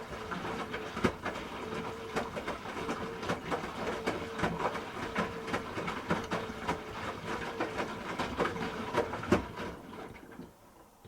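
Hoover H-Wash 300 Plus washing machine running, with irregular knocks and clicks over a hum that comes and goes. It winds down and stops about ten and a half seconds in.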